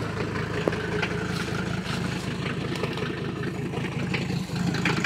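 Mercedes-Benz W123 diesel engine idling steadily, running just after its first start in about three months of sitting.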